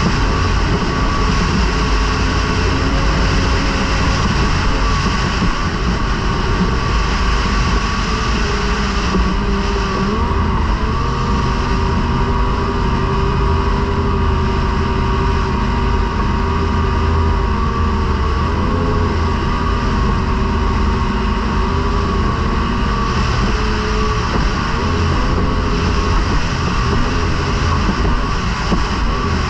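A racing outboard motor running flat out at a near-constant pitch that dips slightly now and then, heard from on board the racing boat, with a heavy low rush of wind and water over it.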